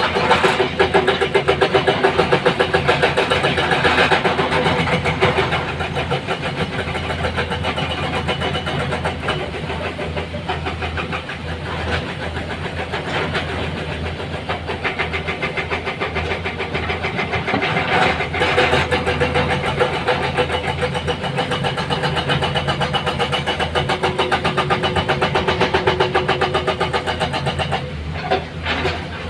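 Heavy diesel engine running with a fast, even pulse, a little louder in the first few seconds and then steady.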